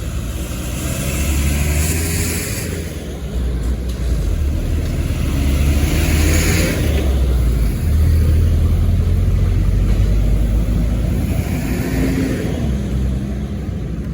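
Road traffic: motor vehicle engines running with a strong low rumble, as vehicles pass close by in several swells about two, six and twelve seconds in.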